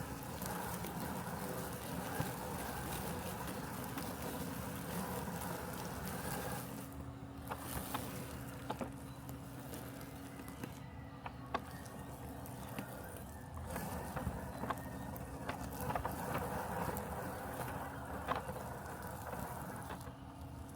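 Robotic lawn mower running with a steady mechanical hum, several constant tones over a low drone and a high hiss, with scattered light ticks. About seven seconds in the hiss thins and a new steady tone comes into the hum.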